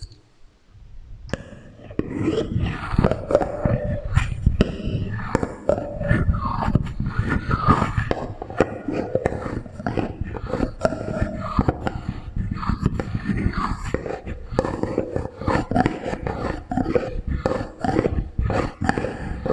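Close-miked ASMR sounds from salad servers and a lollipop under a heavy echo effect: a fast, continuous run of clicks and scrapes with wavering, hollow tones, starting about two seconds in.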